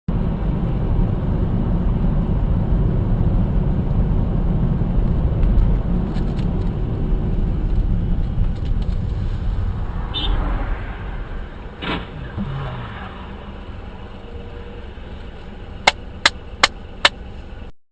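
Dashcam recording of a car on the road: a steady low rumble of engine and road noise that eases off in the second half. There is a brief sharp knock about twelve seconds in, then four quick sharp clicks near the end.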